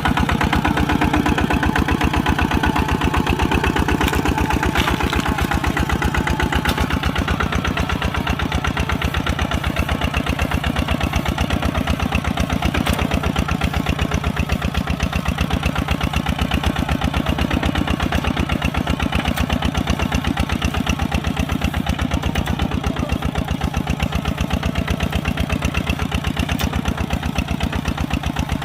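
Kubota RT140 single-cylinder diesel engine running steadily with an even, rapid chug of firing strokes.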